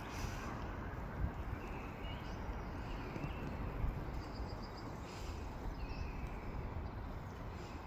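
Outdoor ambience: wind rumbling on the microphone, with small birds chirping now and then and a short high trill about halfway through.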